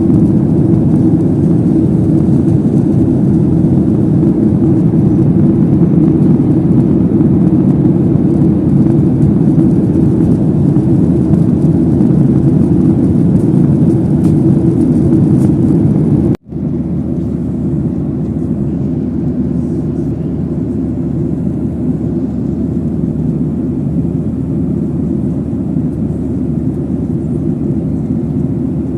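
Steady, loud airliner engine and airflow noise heard inside the passenger cabin during takeoff and climb-out. It cuts out for an instant about sixteen seconds in, then carries on a little quieter.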